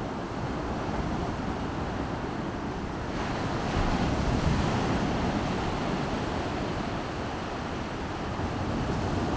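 Baltic Sea surf washing onto the shore, with wind buffeting the microphone; a wave swells louder about three to four seconds in.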